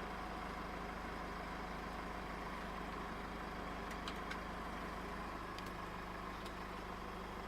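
Steady low hum of a Chrysler Grand Voyager's 2.8 CRD turbo-diesel engine idling, with a few faint clicks about four and five and a half seconds in.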